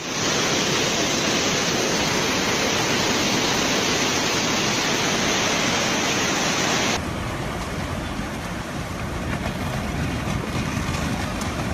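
Steady rushing of floodwater with wind noise on the microphone, cutting abruptly about seven seconds in to a second, slightly quieter stretch of rushing noise.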